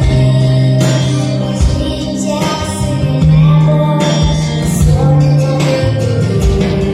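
A young girl singing a Ukrainian pop (estrada) song over instrumental backing music, her voice holding and sliding between long notes.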